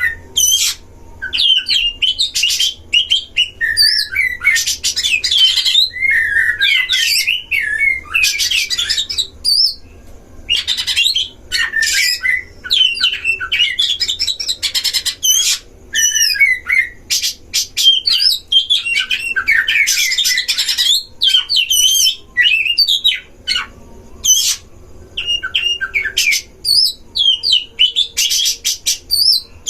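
Oriental magpie-robin (kacer) song: loud, varied runs of whistled and warbled phrases mixed with harsh, scratchy notes, in bursts broken by short pauses.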